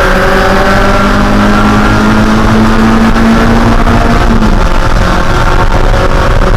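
Mazda Spec Miata's 1.6-litre four-cylinder engine running at racing speed, its pitch climbing slowly under throttle and then dropping about four and a half seconds in.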